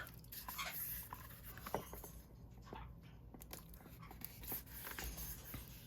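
Faint handling of a small paper-and-card journal: soft rustles and a few light taps and clicks.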